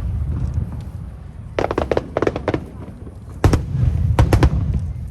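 Aerial fireworks bursting: clusters of sharp cracking reports over a low rolling rumble, with a volley about one and a half seconds in and a heavier burst about three and a half seconds in.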